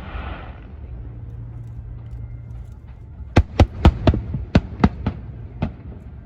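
Fireworks: a fading crackle in the first second or so, then from about halfway a rapid, uneven run of sharp bangs as shells burst.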